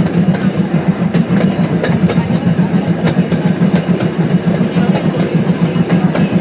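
Hermann Park miniature train running, heard from aboard: a steady, loud rumble of the wheels on the rails with scattered sharp clicks and clacks.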